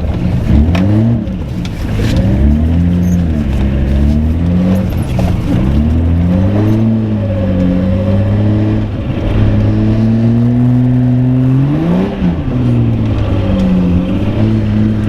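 1987 BMW 325i's 2.5-litre straight-six engine revving hard under way, its pitch climbing and falling back again and again, with one sharp high rev about three-quarters of the way through. The clutch is worn and slipping and the engine misfiring, by the driver's own account.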